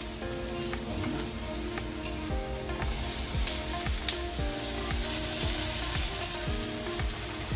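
Chopped onion and vegetables frying in oil in a nonstick pan, sizzling steadily while a silicone spoon stirs and scrapes through them, with small clicks of the spoon against the pan.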